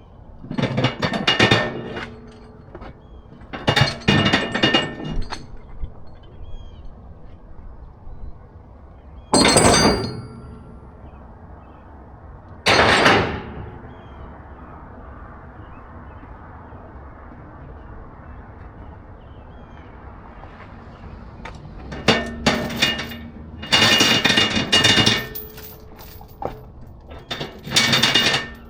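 Bursts of loud metallic clanking and rattling, each a second or two long, about half a dozen of them with a long gap in the middle, over a steady low rumble.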